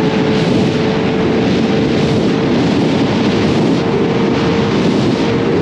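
Kawasaki ZX-25R motorcycle's inline-four engine running at a steady pitch under heavy wind noise on the microphone.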